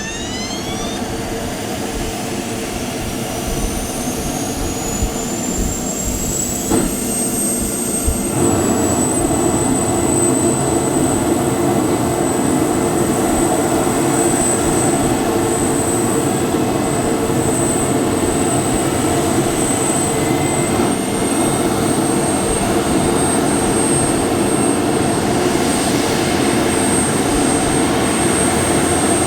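Mitsubishi F-2B fighter's single F110 turbofan spooling up: a rising whine climbs for several seconds and levels off about eight seconds in. A steady high whine and loud rumble follow, which fits the engine coming up to speed on the ground.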